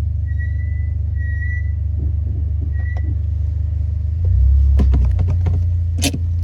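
Honda Accord Euro R (CL7) suspension making an abnormal noise, with short high squeaks in the first three seconds, then a rapid series of clicks and knocks about five seconds in and a sharper knock near the end. Under it runs the car's steady low rumble, which swells about four seconds in.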